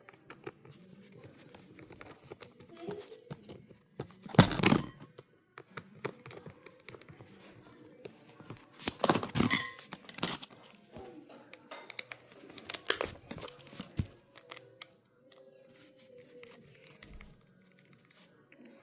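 Crinkling and tearing handling noises with scattered small clicks, and two louder rasping tears about four and a half and nine seconds in.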